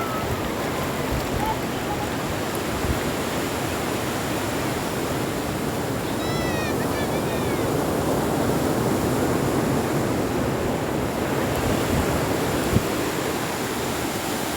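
Sea surf washing on a beach, a steady rushing that swells a little in the middle. A brief high call, faint against the surf, about six seconds in.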